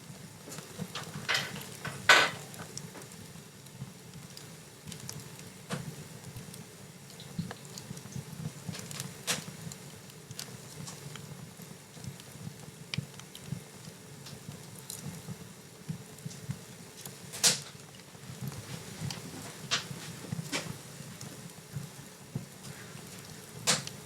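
Wood fire in a fireplace crackling: scattered sharp pops and snaps at irregular intervals, the loudest about two seconds in, over a low steady rumble of the flames.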